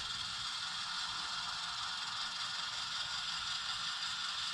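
HO-scale model locomotive running steadily as it backs a cut of cars: an even whir of motor, gears and wheels on the rails.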